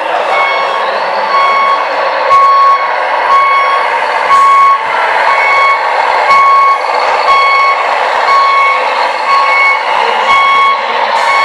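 Reversing alarm from a radio-controlled truck's sound module, beeping evenly about three times every two seconds over the truck's steady running noise.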